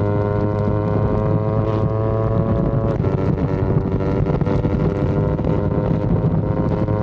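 Yamaha R25 parallel-twin engine pulling under acceleration, its pitch climbing slowly, dropping sharply about three seconds in as it shifts up a gear, then climbing again. Wind rushes over the microphone throughout.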